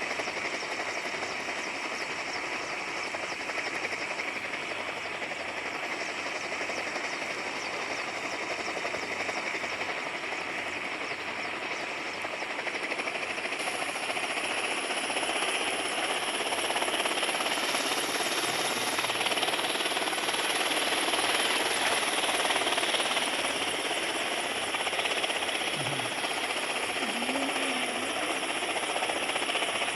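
Helicopter flying: a steady rush of rotor and engine noise that grows louder about halfway through.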